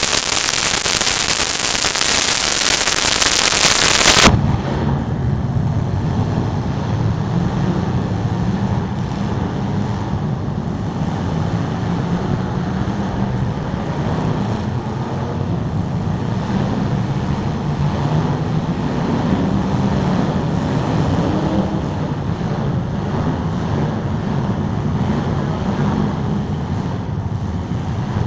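A loud crackling hiss for the first few seconds, cut off abruptly. Then demolition derby cars' engines run and rev in a steady low rumble.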